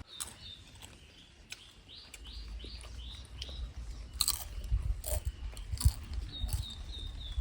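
A bird calling in runs of short, falling chirps, with a few sharp crunching clicks and a low rumble.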